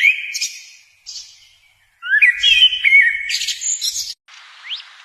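Songbird singing in warbling phrases of quick up-and-down whistled notes, loudest from about two to four seconds in. Near the end it gives way to a faint hiss with a few short rising whistles.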